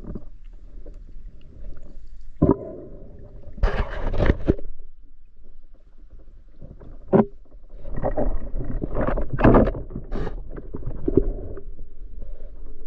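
Irregular splashing and sloshing of water, with two sharp knocks, one about two and a half seconds in and one about seven seconds in.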